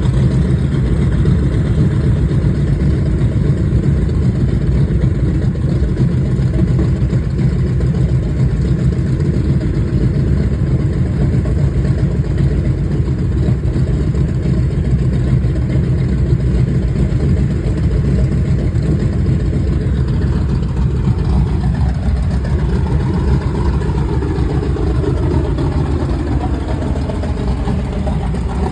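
TBM Avenger's 14-cylinder Wright R-2600 radial engine running steadily on a ground check run, a loud, low, even drone. Over the last several seconds a set of higher tones slides slowly downward in pitch.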